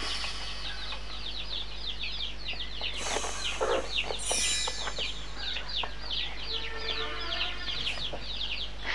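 Bird chirping: a fast run of short, high, falling chirps, about five a second, with a brief louder noisy burst about three to four seconds in and a low steady electrical hum underneath.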